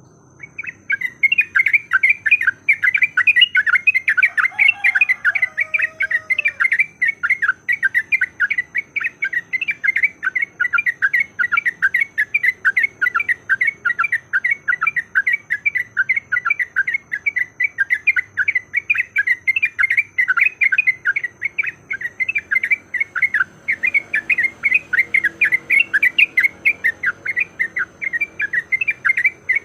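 Yellow-vented bulbul (trucukan) giving a fast, unbroken chatter of short 'cuk-cuk' notes, about five a second, the excited fighting-mood song used as a lure to provoke other bulbuls.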